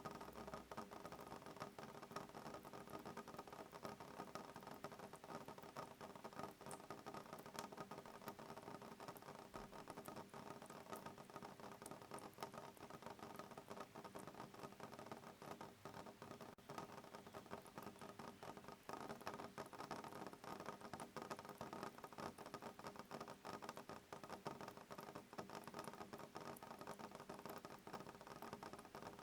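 Soft rain pattering on a window pane: a faint, steady, dense spray of light drop ticks, with no thunder.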